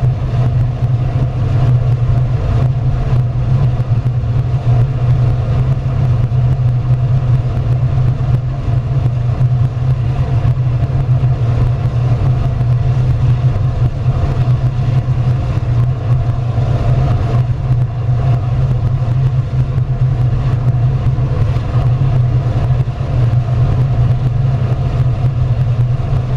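Biomass gasifier furnace running, a loud, steady low rumble that holds without change.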